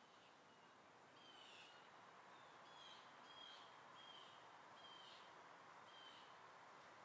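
Faint bird calls: short chirps falling in pitch, repeated every half second to a second, over a low steady hiss.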